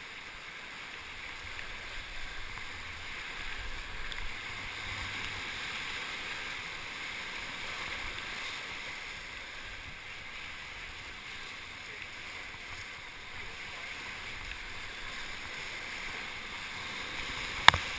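Steady rush of river whitewater, with a single sharp knock near the end.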